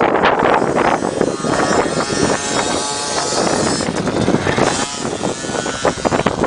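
Dirt bike engine revving as it rides the motocross track, its pitch rising and falling, with wind buffeting the microphone.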